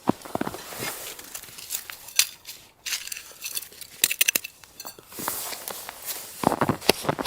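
Irregular crinkling, scraping and sharp clicks with light clinks, the noise of gear or objects being handled at close range.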